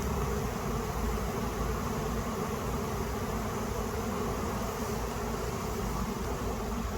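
Honeybee colony swarming: a steady, dense buzzing hum of many bees in flight at once.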